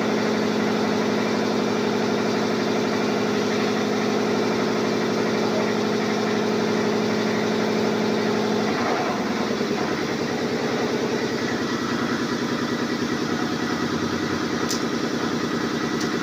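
Small petrol engine running steadily at a fast idle. About nine seconds in its speed drops, and it settles into a lower idle that pulses unevenly.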